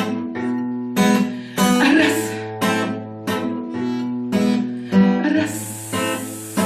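Acoustic guitar playing an instrumental passage between sung verses. Full chords are strummed about once a second, and each rings on over a sustained bass note.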